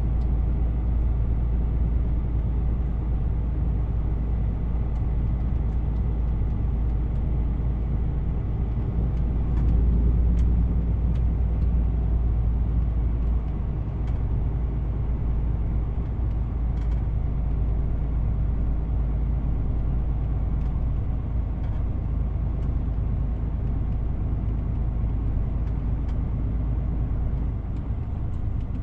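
DAF CF 450 truck's diesel engine running under way with road noise, a steady drone that grows louder for a few seconds about ten seconds in, then drops back.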